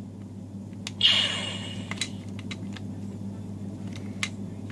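Plastic clicks and knocks from handling and fitting together the parts of a modified Nerf toy blaster, with a louder click and short scrape about a second in, over a steady low hum.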